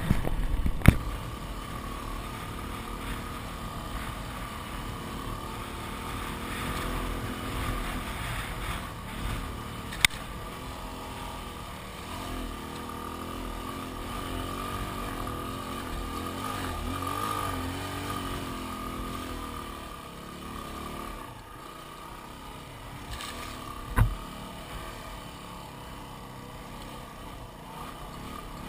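Yamaha WR250R's 250 cc single-cylinder four-stroke engine running steadily under way on a sandy track, its note wavering a little with the throttle. A few sharp knocks break through: one about a second in, one about ten seconds in and one near the end.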